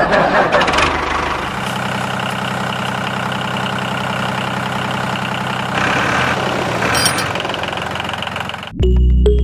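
Mini tractor engine running steadily at idle, with a rougher, noisier stretch in the first second or so. Music comes in near the end.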